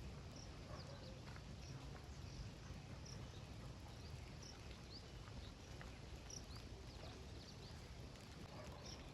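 Scattered short, high chirps from small birds over a steady low rumble.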